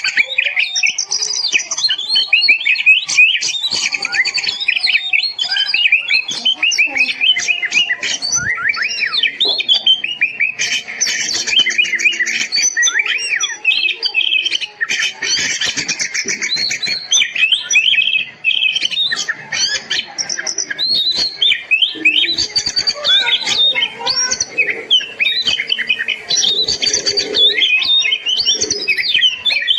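Oriental magpie-robin (kacer) singing loudly and without pause: a fast, varied stream of whistles, slurred notes and chattering trills.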